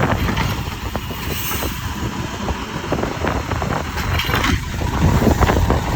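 Mack side-loader garbage truck's diesel engine running steadily, with wind buffeting the microphone.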